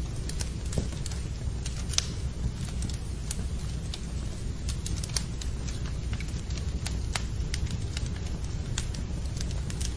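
Wood fire burning in a fireplace, crackling with scattered, irregular sharp pops over a low steady rumble.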